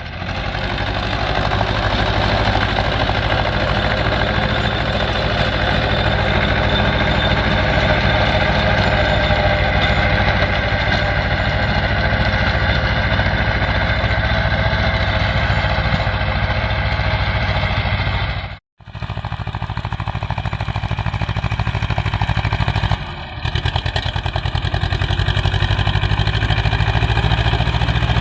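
Swaraj 724 XM tractor's two-cylinder diesel engine running steadily with a fast, even firing beat. The sound cuts out for an instant about two-thirds of the way through and dips briefly a few seconds later.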